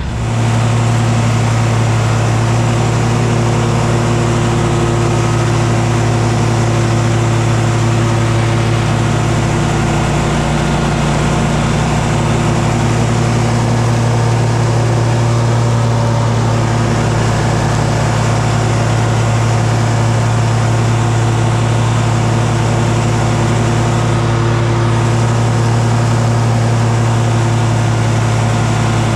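An engine running steadily at a constant speed, a loud low hum that holds its pitch.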